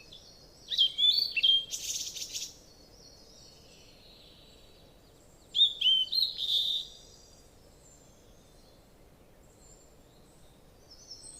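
A small songbird chirping in two short bursts of high, quickly changing notes, about a second in and again around five and a half seconds in, over a faint steady background hiss.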